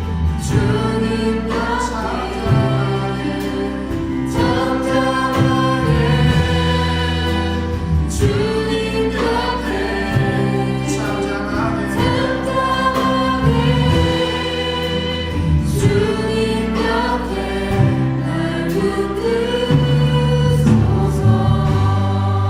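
Church praise band and singers performing a worship song, a group of voices singing over the band's steady accompaniment.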